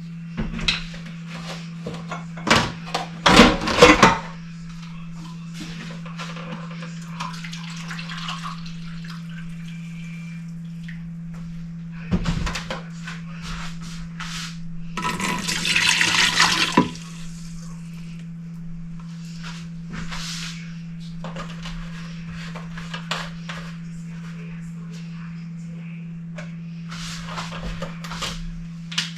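Plastic parts of a Levoit humidifier being opened and handled, with scattered clicks and knocks and a louder clatter a few seconds in. About halfway through comes a couple of seconds of water running or splashing, and a steady low hum runs underneath.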